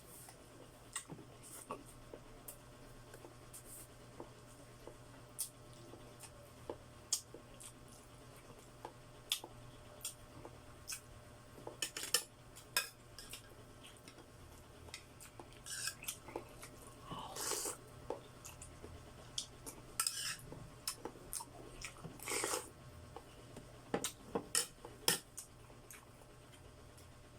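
Close-up eating of chicken feet: scattered sharp clicks and taps against dishes, with chewing and biting. There are a few longer, wet-sounding noises in the second half.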